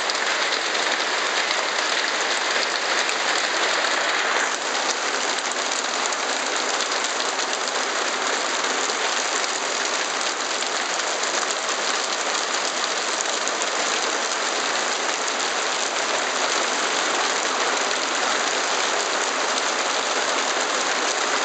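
Heavy downpour of a hailstorm pelting the ground and roofs: a dense, steady hiss that eases slightly about four seconds in.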